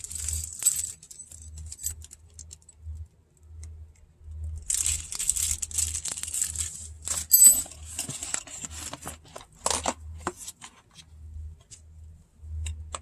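Rustling and clicking as the small parts of a tire pressure monitor kit are handled, with a sharp metallic clink about seven seconds in.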